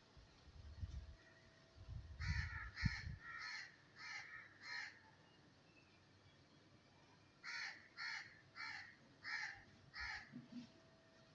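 A bird calling outdoors in two runs of about five quick repeated calls, each call about half a second apart. Low rumbling thumps sound during the first three seconds.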